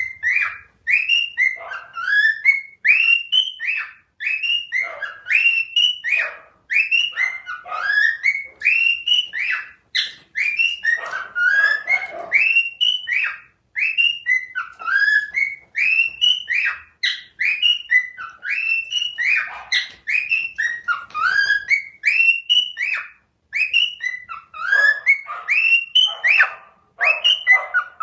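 A bird calling over and over in short, whistle-like rising-and-falling chirps, about two a second.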